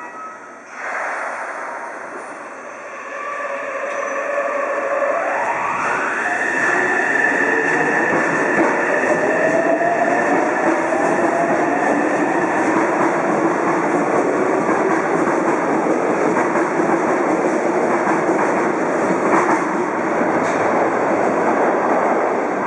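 Yokohama Municipal Subway Blue Line train pulling out of the station: its traction motors give a whine that rises in pitch as it accelerates, over running noise that grows louder and then holds.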